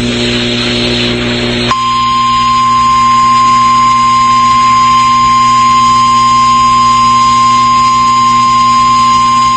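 Emergency alert broadcast tone. A short rush of hiss with a low electrical hum comes first. Then, from about two seconds in, a single steady tone sounds over the hum: the NOAA Weather Radio warning alarm tone that comes before the spoken warning.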